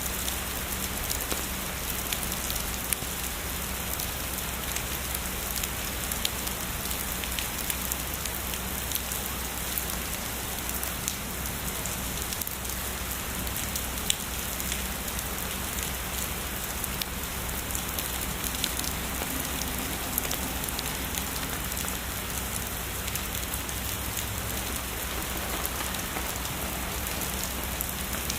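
Heavy rain falling steadily, with many individual drops ticking sharply against a surface.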